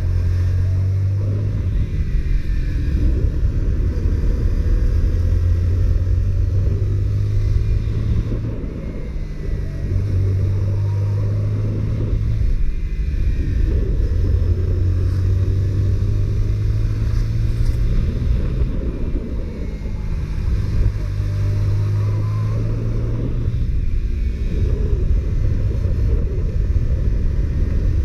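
Honda CBR125R's single-cylinder four-stroke engine running under way on the stock exhaust, with wind rushing over the microphone. The low engine note holds steady and breaks off briefly a few times.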